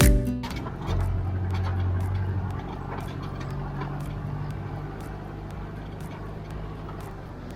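A steady low motor rumble that slowly fades, with faint scattered ticks. Guitar music cuts off just at the start.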